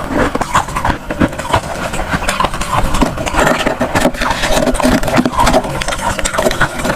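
Freezer frost being crunched and chewed close to the microphone: a dense, uneven run of crackling crunches.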